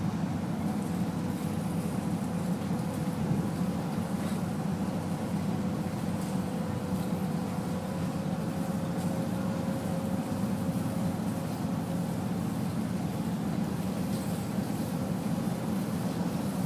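Steady low rumble of a running vehicle or vessel, with a faint steady hum over it.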